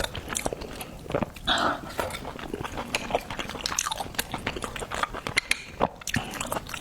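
A person eating close to the microphone, likely garlic-topped oysters: wet chewing and smacking with many quick clicks.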